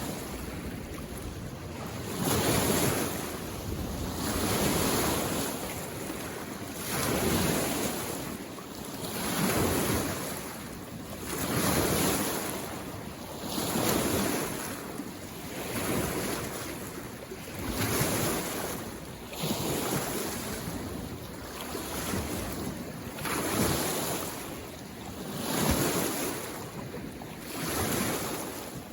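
Small lake waves washing in against the shore in a regular rhythm, one swell about every two seconds.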